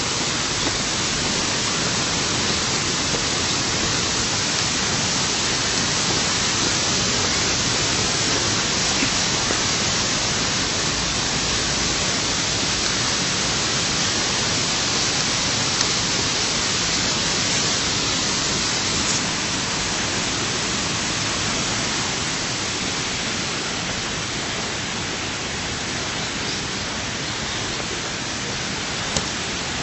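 Steady rush of running water, like a waterfall or stream cascading in a ravine, even and unbroken throughout.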